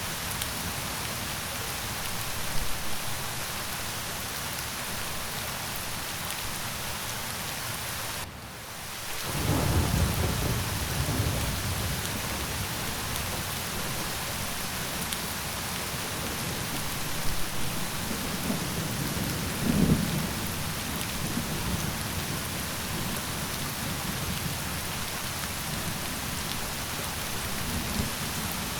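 Steady rain falling, with a rolling rumble of thunder starting about a third of the way in, just after a brief dip in the rain, and further low rumbles of thunder later on.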